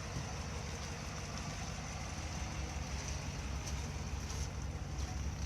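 2018 Chevrolet Silverado 1500 pickup's engine idling steadily, a low even rumble.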